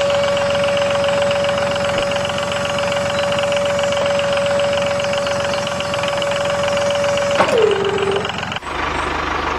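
Small motor running with a steady high whine over a fast rhythmic pulse. Near the end the whine drops in pitch, then cuts off suddenly into a different, lower running sound.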